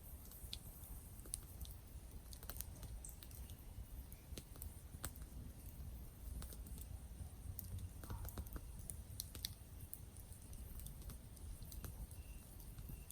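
Campfire crackling: irregular sharp snaps and pops from burning wood over a steady low rumble of the fire. A few faint short high chirps come in near the end.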